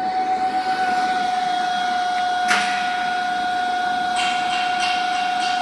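Arc welding in progress: a steady high-pitched whine over a sputtering, crackling hiss, with a few sharp pops, the loudest about halfway through.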